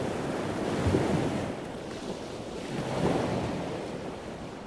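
Rushing wind and sea noise with a gust of wind on the microphone. It swells twice and then fades away near the end.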